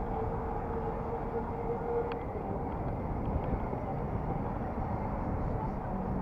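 Steady rumble of wind and road noise while riding an electric bicycle, with a faint steady whine for about the first two seconds.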